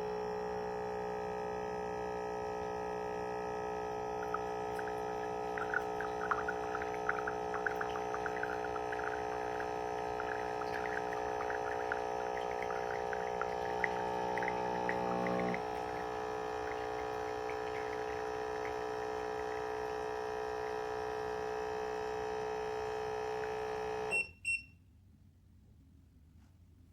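Electric coffee maker's pump humming steadily while coffee spatters and trickles into the cup. The hum steps down partway through and cuts off sharply near the end with a couple of short clicks.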